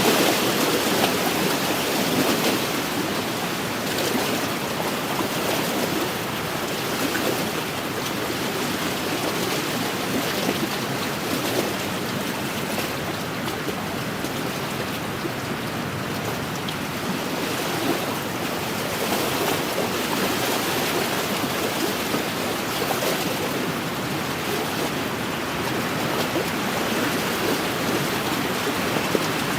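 Small wind-driven waves washing and lapping against a lakeshore: a steady watery wash that rises and eases slightly every few seconds.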